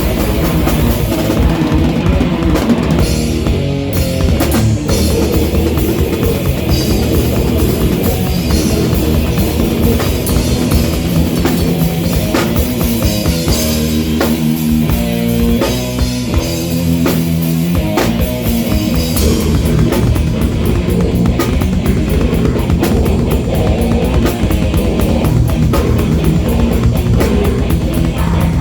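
Live rock band playing loud, with a drum kit, bass and guitar. About halfway through, the kick drum drops out for a few seconds under a stepped guitar riff, then the full band comes back in.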